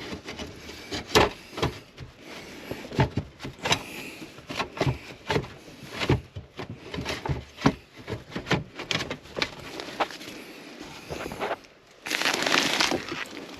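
Irregular knocks, clicks and light scrapes of a bathroom exhaust fan housing being handled and fitted into a ceiling opening, with a scraping rush lasting about a second near the end.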